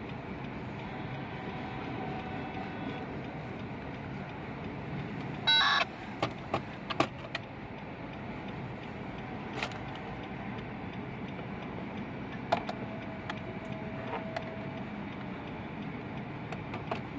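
Freight train rolling steadily past a grade crossing, a continuous rumble heard from inside a waiting car. About five and a half seconds in comes a short, loud tone, followed by a few sharp clicks.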